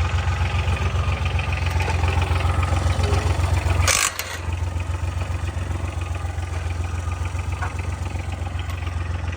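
Homemade 26 hp tractor's engine running steadily. About four seconds in there is a short rushing burst, and the engine's low note dips briefly before it carries on.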